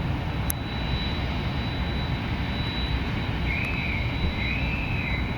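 Whistling from the passing navy ships: two high notes, each rising then falling, starting about three and a half seconds in, over a steady low rumble.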